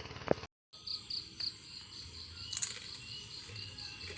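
Forest insects, cricket-like, chirping in a steady run of evenly spaced high pulses, with a few faint clicks.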